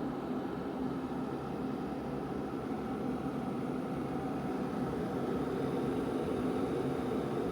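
Glass electric kettle heating water, a steady rumbling hiss that grows slightly louder in the second half.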